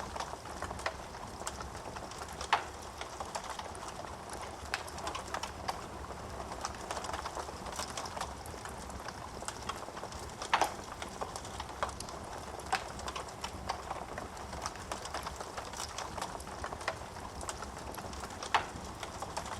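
Wood fire burning in a fireplace: a steady hiss of flames with frequent small crackles of burning wood and three louder pops spread through.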